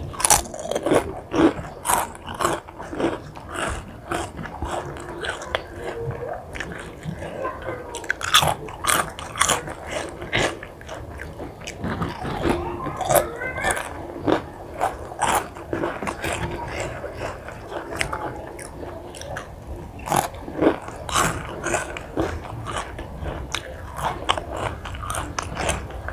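A person chewing crunchy food close to the microphone, with many sharp crunches scattered throughout.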